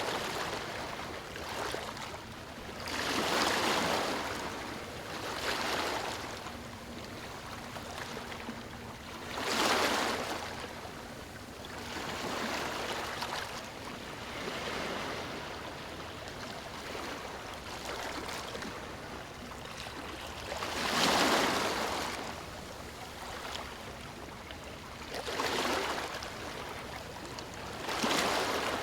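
Waves breaking on a stony shore: a surge of rushing water every few seconds, the loudest about ten and twenty-one seconds in, with a steady wash between.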